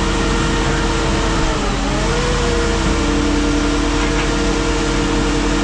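Sierra car crusher's engine running steadily. Its pitch dips briefly under load about one and a half seconds in, then settles slightly higher.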